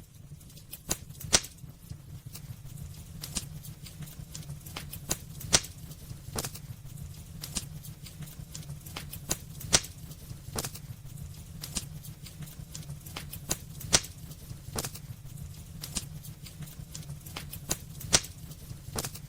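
Wood fire burning in a fireplace, crackling with irregular sharp snaps and a few louder pops every few seconds over a steady low rumble of the flames.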